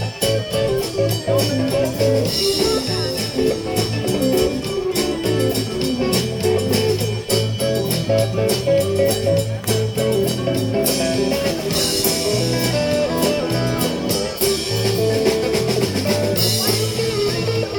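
Live blues band playing an instrumental break: a lead guitar playing over a bass line and a drum kit.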